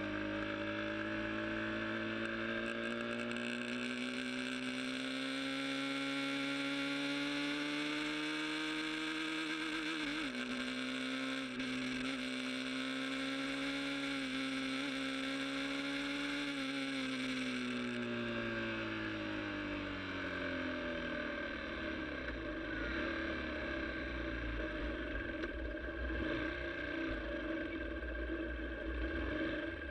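Sport motorcycle engine pulling at steady high revs, its pitch creeping up, wavering briefly about ten seconds in, then holding. Past the middle the revs fall away, leaving a low rumble of wind and road.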